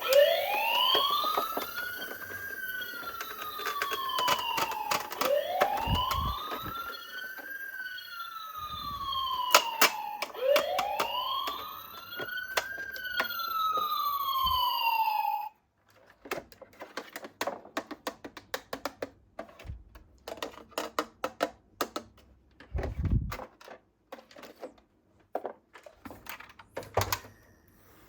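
Electronic siren of a toy police car wailing, its tone rising quickly and then falling slowly, three times over about fifteen seconds. It cuts off suddenly, and a long run of quick, irregular clicks and clatter of small hard objects follows.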